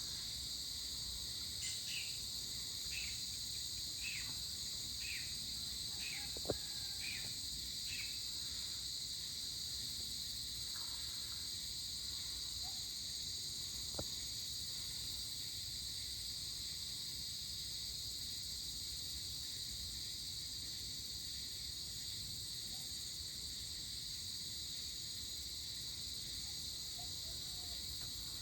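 A steady, shrill chorus of crickets and other insects. In the first eight seconds about seven short falling calls come roughly once a second, and two sharp clicks stand out, one about six seconds in and one about fourteen seconds in.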